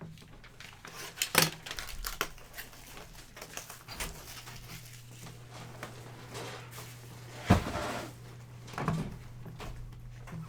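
A trading-card hobby box and its packaging being handled and opened: rustling cardboard and wrapper with a few sharp knocks and clicks, the loudest about seven and a half seconds in.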